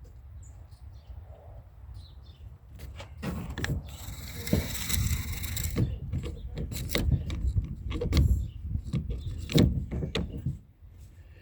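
Irregular clattering knocks and clicks from something mechanical being handled, starting about three seconds in, with a short hiss about five seconds in.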